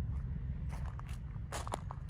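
Footsteps crunching and scraping on gravelly, rocky ground, a few uneven steps, over a low steady rumble.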